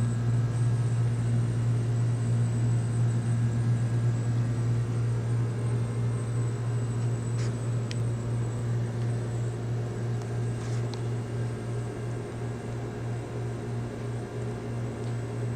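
Steady low machine hum with a faint hiss, like running electrical or air-handling equipment, and a couple of faint ticks partway through.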